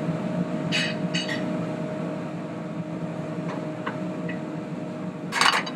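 Steady hum of kitchen ventilation or fan machinery. Over it come a few light clicks about a second in and one sharper clatter near the end, from a plate and utensils as the roasted chicken is plated.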